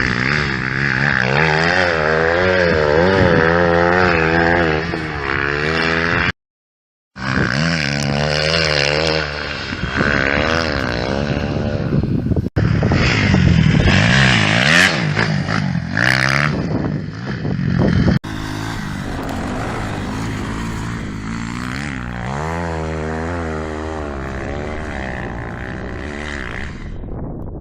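Kawasaki KX250F motocross bike's four-stroke single-cylinder engine revving hard under load on a hill climb, its pitch rising and falling quickly as the throttle is worked. The sound cuts out briefly about six seconds in and changes abruptly twice later.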